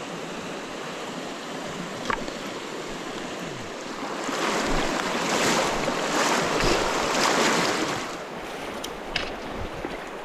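Steady rush of flowing river water, swelling louder for about four seconds in the middle, with one sharp click about two seconds in.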